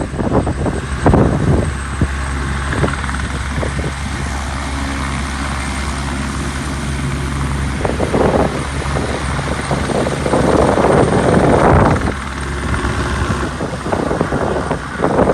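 Helicopter running with a steady low rotor and engine hum. Loud gusts of wind on the microphone break in from about eight to twelve seconds in and again near the end.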